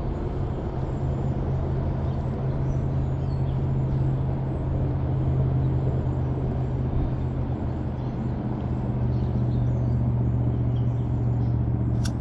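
Steady low engine hum of a motor vehicle running without a break, over the wash of the creek, with a couple of sharp clicks at the very end.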